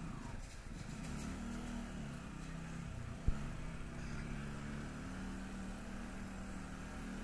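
Small Benelli motorcycle engine running as it rides along a street, its pitch rising and falling over the first few seconds and then holding steady, with a light rush of noise underneath. A single sharp thump about three seconds in.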